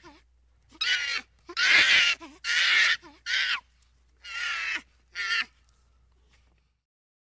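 Baboons giving a series of harsh, high calls, about six short cries spread over five seconds, the loudest near the middle.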